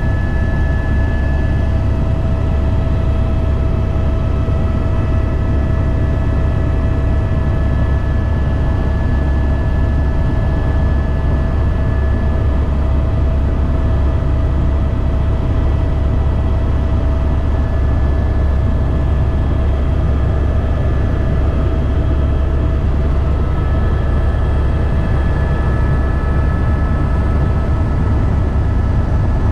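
Helicopter in flight: steady low rotor and engine rumble with a constant high whine over it.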